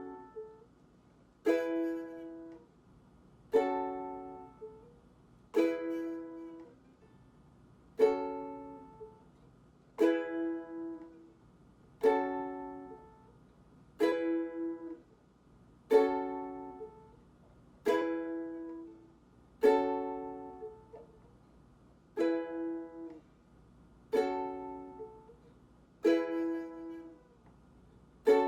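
Ukulele strummed one chord at a time, about every two seconds, each chord left to ring and fade before the next. The player switches back and forth between a G-flat minor (Gbm) chord and an E chord as a slow practice transition.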